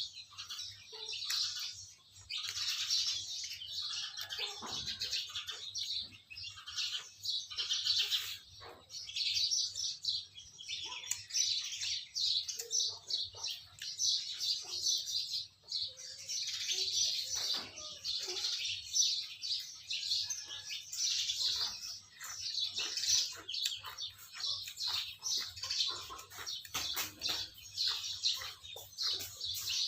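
Small birds chirping continuously in a dense, overlapping chatter of short high chirps.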